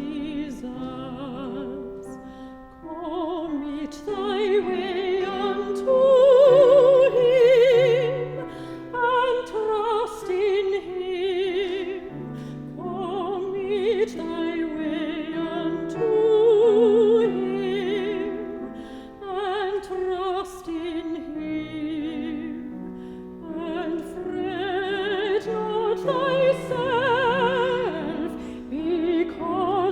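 A solo classical singer with a wide vibrato sings long, sustained phrases over held accompaniment chords.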